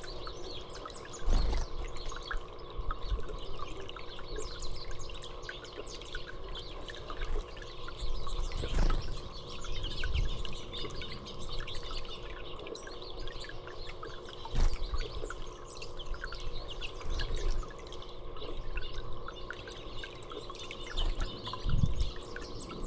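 Small birds chirping and twittering over steady trickling water, with a few brief low thumps.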